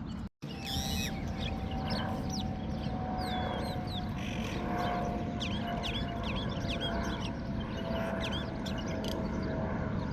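Small birds chirping repeatedly with short, quick calls over a steady low background hum, with a faint steady tone that slowly sinks in pitch. The sound cuts out briefly just after the start.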